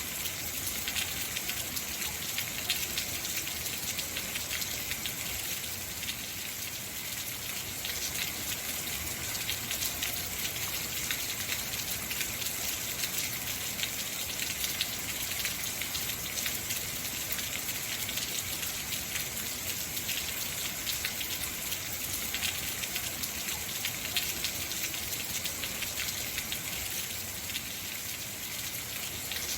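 Heavy rain falling steadily, a dense patter of many drops on hard surfaces.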